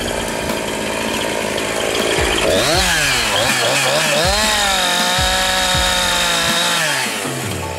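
Petrol chainsaw idling, then revved in several quick blips about two and a half seconds in and held at high revs for a couple of seconds. It drops back to idle near the end.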